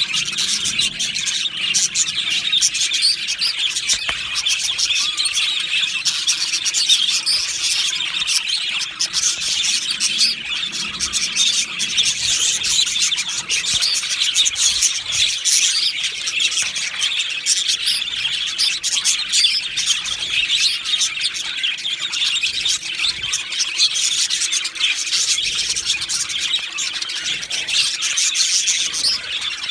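Male budgerigars chattering and chirping without a break, a dense, high warble of overlapping chirps with occasional squawks.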